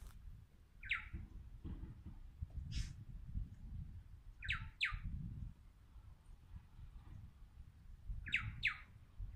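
Short sharp bird calls, some single and some in quick pairs, every few seconds, over a low rumble.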